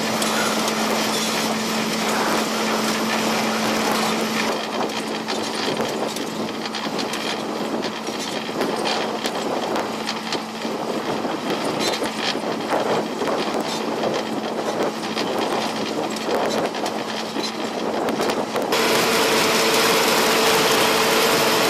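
Vermeer T655 Commander 3 trencher tractor's diesel engine running steadily under load while its digging attachment cuts through the ground, with gritty crackling and scraping over the engine tone. Near the end the sound changes abruptly to a louder, smoother drone.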